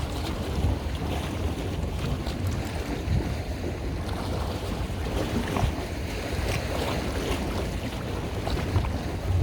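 Wind buffeting the microphone over the steady wash of water and waves, with an uneven low rumble and no distinct events.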